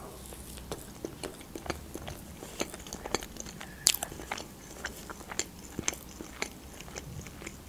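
A person chewing a mouthful of rolled thin pancake: soft wet mouth sounds with many small irregular clicks, one sharper click about four seconds in.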